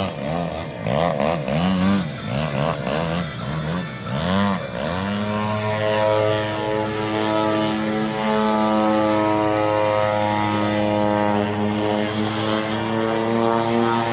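Radio-controlled model airplane's engine and propeller, its pitch swinging up and down in quick swells for about five seconds as the throttle is worked, then held at a steady pitch.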